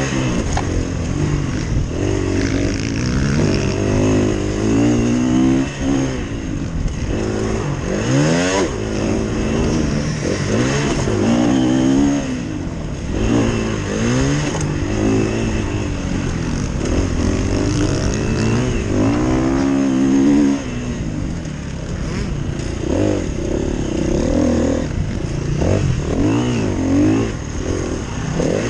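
KTM 350 EXC-F enduro bike's single-cylinder four-stroke engine at race pace, revving up and dropping back again and again as the throttle is opened and shut and gears are changed, heard from the rider's helmet.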